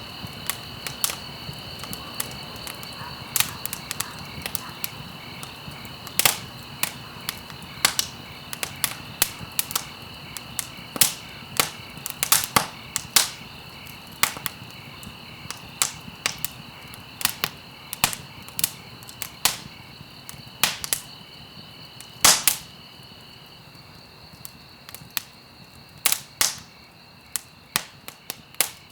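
Campfire crackling: irregular sharp pops a few times a second, the loudest about 22 seconds in, over a steady high chirring of crickets that thins out in the last few seconds.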